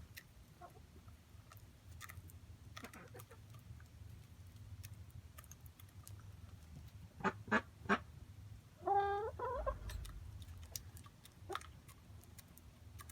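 Backyard poultry being hand-fed: scattered faint clicks and three sharp taps in quick succession a little past halfway, then one short, harsh call with a stepped pitch, over a steady low rumble.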